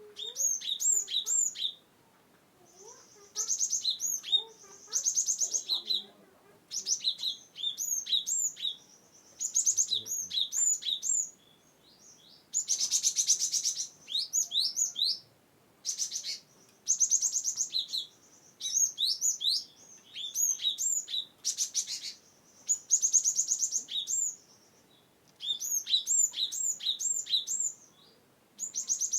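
Cinereous tit (gelatik batu) singing: bouts of quick, high repeated whistled notes a second or two long, broken by short pauses, with a few harsh buzzy rattles in between.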